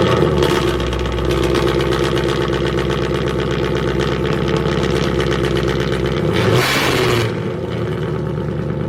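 Muffler-deleted 5.0 V8 engine running steadily and loud, with a short rush of noise about seven seconds in.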